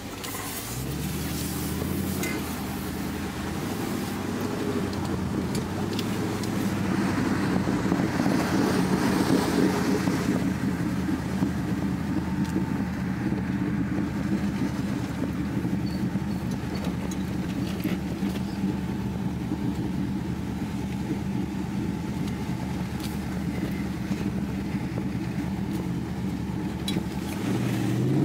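Dodge Charger SRT8's 6.4-litre HEMI V8 heard from inside the cabin, pulling away with climbing revs about a second in, then running steadily at cruising speed with road noise. The revs climb again near the end.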